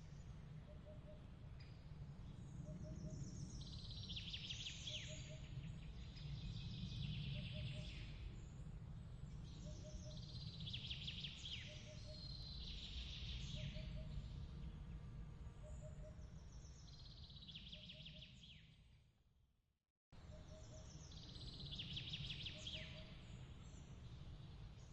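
Birdsong in short repeated phrases, one every couple of seconds, over a steady low rumbling background, with faint paired chirps about once a second. The whole ambience fades out about nineteen seconds in and cuts back in abruptly a second later, as at a loop point.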